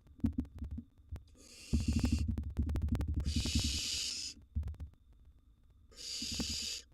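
Barn owl nestlings giving harsh hissing begging calls, three rasping bursts of about a second each. Soft knocks and scuffling of the birds moving in the nest box run underneath.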